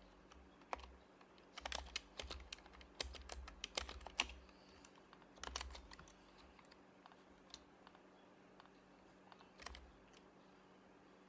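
Typing on an HHKB Professional HYBRID Type-S keyboard, its silenced Topre keys giving soft muted clacks. Quick bursts of keystrokes for the first few seconds and another about five and a half seconds in, then only scattered single keys and one short run near the end.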